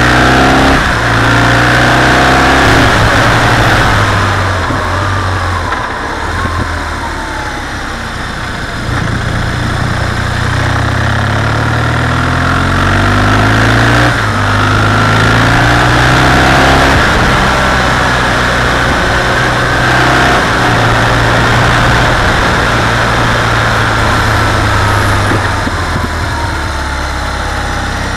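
BMW R 1200 GS's air/oil-cooled boxer twin running under way, its revs rising and falling repeatedly as the throttle opens and closes, with a steady wind rush over the microphone.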